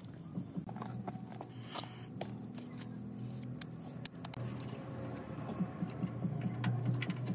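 A low, steady machine hum with many scattered sharp clicks and taps, like tools and parts being handled during workshop work.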